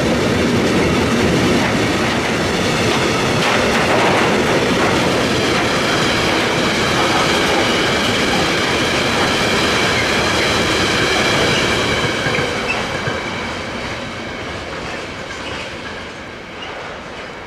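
Freight train of tank wagons rolling past close by: a steady rumble and clatter of steel wheels on rail, with faint high steady tones above it. From about twelve seconds in the noise fades as the last wagons pass and the train draws away.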